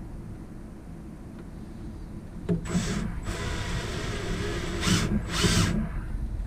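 Power drill driving a stainless steel screw into the aluminum bracket: a longer run followed by two short, louder bursts as the screw is tightened down.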